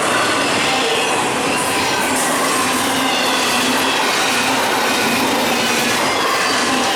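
Freight train rolling past steadily: steel wheels on the rails in a continuous rumble and rattle, with faint high wheel squeals drifting through it.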